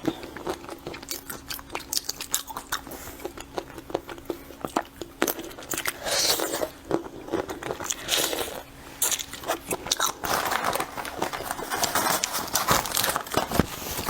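Close-up crunching and crackling as seafood shells are cracked and peeled, mixed with chewing: a dense run of small snaps and clicks, with louder, rougher stretches about six seconds in and from about ten seconds in.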